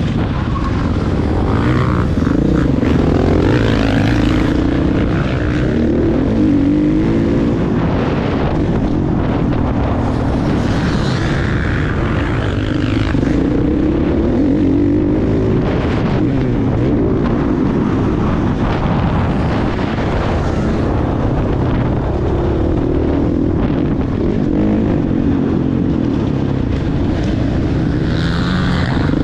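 Motocross bike engine running hard, its pitch rising and falling over and over as the throttle is worked.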